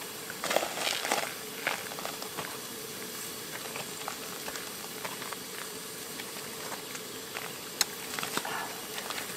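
Wood campfire crackling and hissing steadily, with a few sharp pops, a cluster in the first second or so and a single one near the end.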